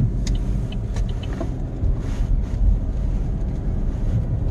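Steady low rumble of a car driving, heard from inside the cabin: engine and tyre road noise, with a couple of faint clicks in the first second.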